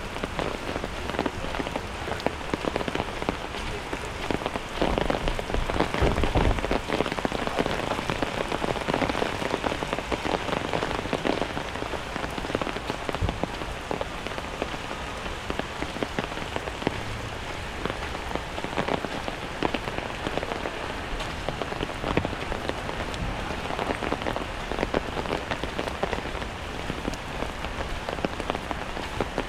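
Steady rain falling, a dense patter of many small drops. A brief low rumble comes in about five to seven seconds in.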